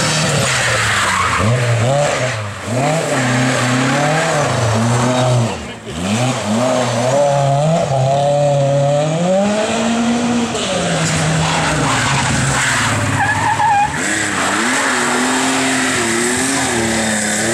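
Rally car engine revving hard, its pitch climbing and falling again and again with throttle and gear changes as the car slides through a stage, with a brief lift of the throttle about six seconds in.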